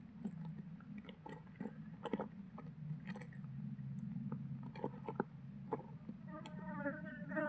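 Irregular small clicks and crunchy snaps, a kingfisher chick working at food too large to swallow, over a steady low hum. About six seconds in, a wavering pitched call begins.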